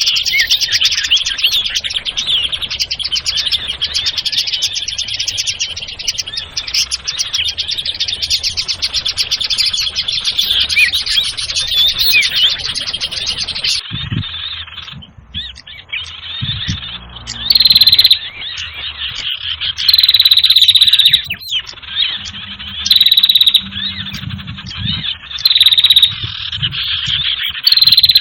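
Bird-lure recording of small birds calling: a dense, busy chorus of rapid high chirps and trills for the first half. About halfway through it changes to loud, short, steady high whistles repeated every two to three seconds, with lower croaking sounds in between.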